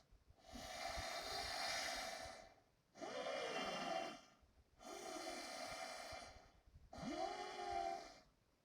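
Noisy, rhythmic breathing, about one breath every two seconds, each with a wavering voiced whine in it, four breaths in all.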